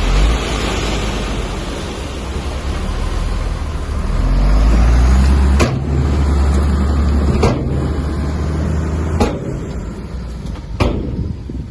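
Heavy diesel earthmoving machinery, such as a bulldozer, running under load with a deep rumble that swells about halfway through. In the second half come four sharp knocks, one every second and a half or so.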